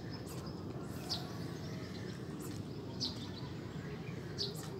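Birds chirping now and then, several short high chirps, over a steady low outdoor background rumble.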